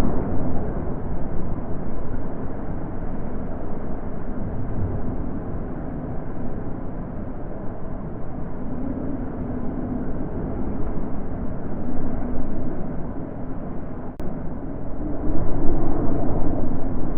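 Wind blowing with a deep, rushing sound that rises and falls in gusts. It is stronger at the start, eases off through the middle and swells again near the end.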